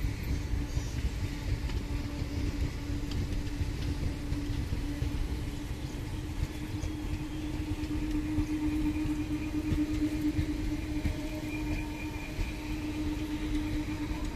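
Indian Railways express coaches rolling past, giving a steady low rumble from wheels on rail with a steady drone that swells a little in the second half.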